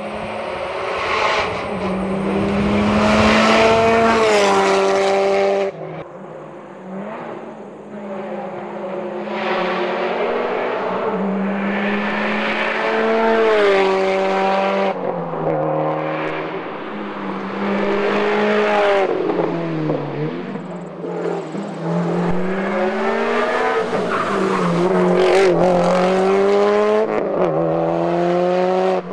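Subaru WRX STI rally car's turbocharged flat-four engine driven hard on a stage, revving up through the gears again and again with a drop in pitch at each shift or lift. About six seconds in it cuts back sharply, then it keeps accelerating and backing off to the end.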